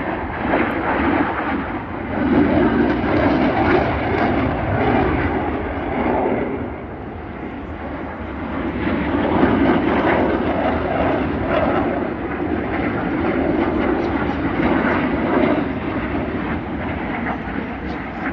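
Jet noise from fighter jets flying past, a loud roar that swells and eases several times.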